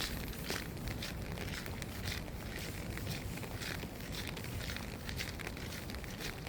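Rain falling steadily, with irregular crackling taps scattered through it.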